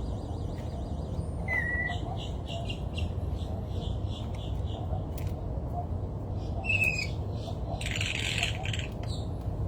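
Small birds calling: two short falling chirps and a quick run of evenly repeated notes, then a brief rough burst near the end, over a steady low rumble.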